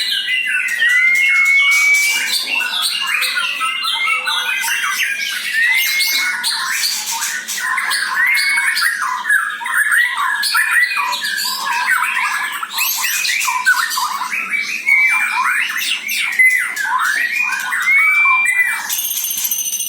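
White-rumped shama (murai batu) singing a long, varied song of rising whistles and quick chattering phrases. Near the end a different falling tone with overtones comes in.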